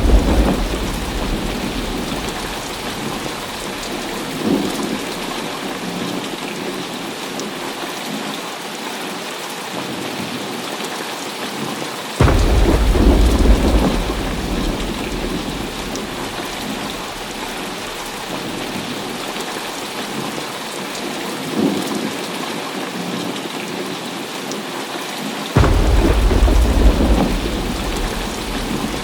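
Heavy rain falling steadily, with rolling thunder. A rumble is already under way at the start and fades over a few seconds; fresh rumbles break in suddenly about 12 seconds in and again near the end, with fainter rumbles between.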